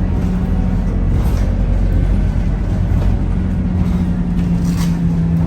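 Scania K230UB city bus running, heard from inside the cabin: a steady diesel drone with a low rumble and a few faint rattling clicks.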